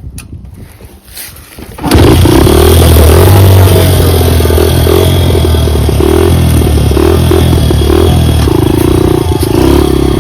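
Dirt bike engine starts about two seconds in, then runs steadily and loudly.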